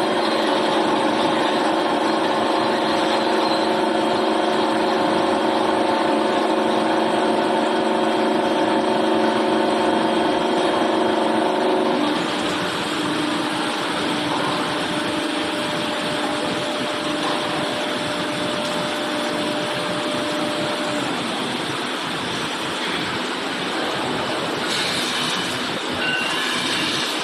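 Machinery running steadily with a droning hum and several held tones; the tones fall away about halfway through, leaving a quieter, even machine noise.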